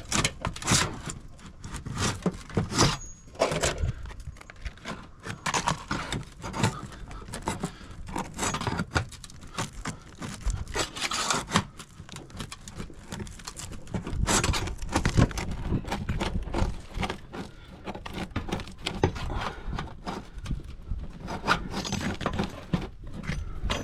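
A roof shingle being pried and scraped loose from flashing that its sealant holds it to: irregular scraping, rubbing and tearing, with knocks throughout.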